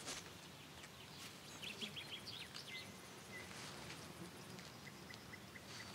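Quiet outdoor ambience with faint bird chirps: a quick run of short chirps about two seconds in and a few more soft chirps near the end.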